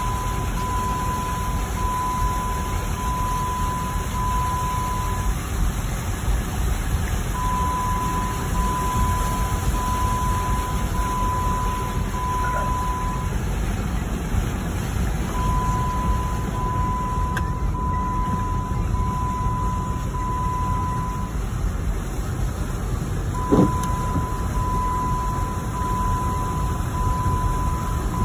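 A steady rushing noise, with an electronic warning beep repeating over it: five short high beeps in a row, each run coming about every eight seconds. One brief knock comes near the end.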